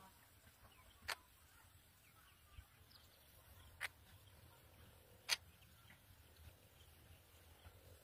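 Faint, scattered chirps from black birds at a nest, with three short sharp clicks about a second, four seconds and five seconds in.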